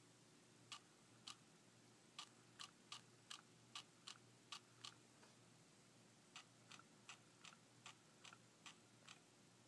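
Aperture mechanism of a Sony SEL35F18 35mm prime lens clicking repeatedly, two to three faint clicks a second in two runs with a pause of about a second and a half between them, over a faint steady hum.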